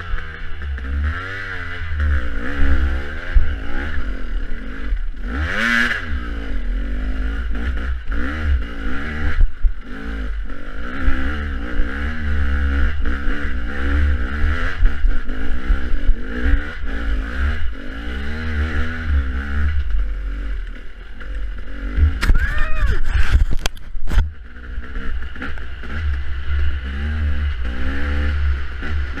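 Dirt bike engine revving up and down again and again as it is ridden over rough off-road terrain, with heavy wind buffeting on the microphone. A short burst of clattering and scraping comes about three-quarters of the way through.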